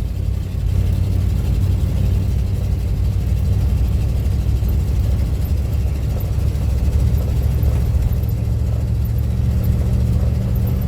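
Steady low rumble of a car's engine and tyres heard from inside the cabin while driving, with no change in pace.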